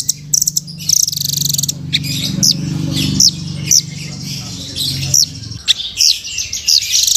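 Nuthatch (the Indonesian 'rambatan') singing: a run of sharp, high down-slurred chirps mixed with rapid buzzy trills. A steady low hum lies under the song and stops near the end.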